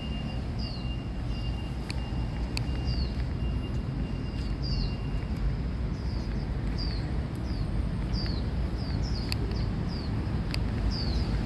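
Small birds chirping: short high notes that slide downward, repeated roughly once a second and more often near the end, over a steady low rumble.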